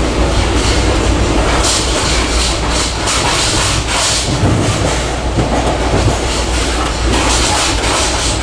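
Train running on rails: a steady low rumble with the clickety-clack of wheels passing over rail joints.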